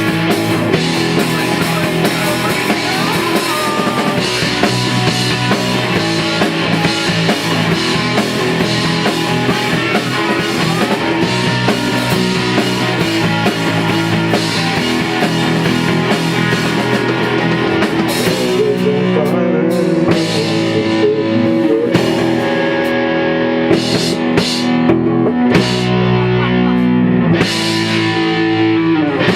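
Rock band playing live: guitars, bass and drum kit. About two-thirds of the way through, the playing thins out to held chords with separate drum and cymbal hits.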